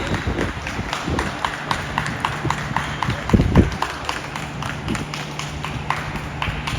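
Gym sounds during a volleyball match: a quick, steady run of light taps and squeaks from players' shoes and the ball. A couple of louder thuds about three and a half seconds in, over a low steady hum.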